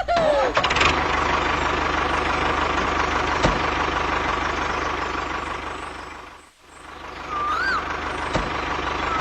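Mini tractor running with a steady engine-like drone. It fades out about six and a half seconds in and then comes back.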